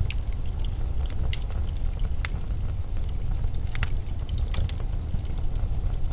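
Blizzard wind blowing as a steady deep rumble, with scattered small crackling ticks at irregular moments.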